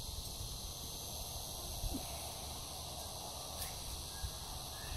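Quiet outdoor background: a steady high-pitched insect drone over a low rumble, with a few faint short clicks.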